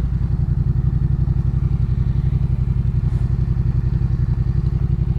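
Yamaha MT-07's parallel-twin engine running steadily at an even, unchanging beat through a Jeskap K4 full aftermarket exhaust.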